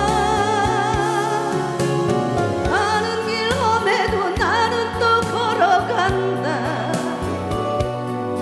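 A singer performing a Korean song live, the voice wavering with vibrato over instrumental accompaniment.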